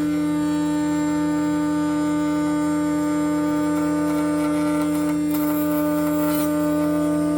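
Laguna Swift CNC router running steadily as it cuts a pocket in wood: a steady, buzzing hum of several tones from the spindle and drives.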